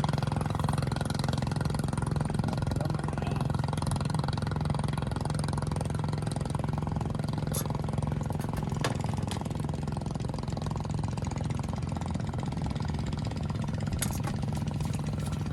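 An engine running steadily at an unchanging idle-like pitch, with a few faint sharp clicks.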